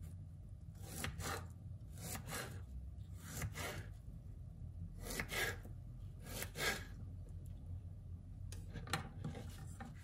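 Kitchen knife slicing through a peeled pear onto a wooden cutting board: about six short, crisp rasping cuts, roughly one every one to two seconds.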